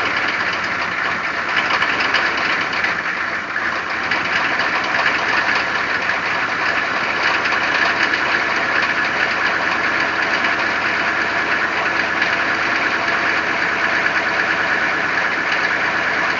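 The 6.5-litre non-turbo diesel V8 of a 1994 GMC 1500 idling steadily just after a cold start at about −15 °C, with no block heater, after six months of sitting.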